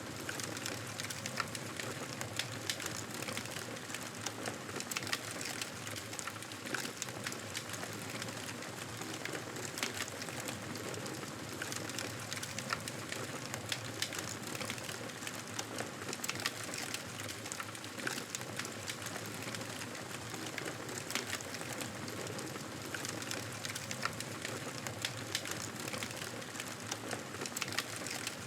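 Wood fire burning in a fireplace: a steady hiss of flames with frequent irregular crackles and small pops.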